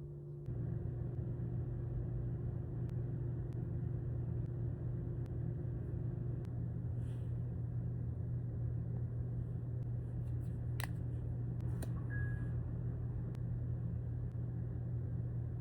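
Steady low background rumble with a constant hum, and a few faint clicks.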